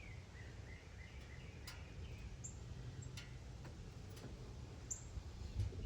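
Faint outdoor background: a low steady rumble with a few brief, high bird chirps and a few scattered light clicks.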